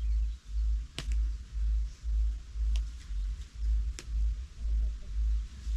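Low, dull thumps at an even pace of about two a second, with a few short sharp clicks among them.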